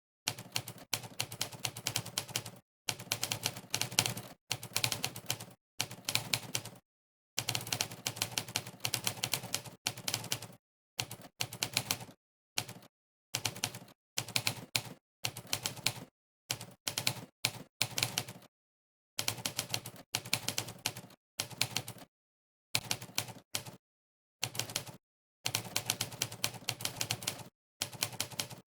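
Monkeytype's typewriter sound effect: sampled typewriter key strikes, one for each keypress, clicking rapidly in runs of a second or two broken by short gaps of dead silence.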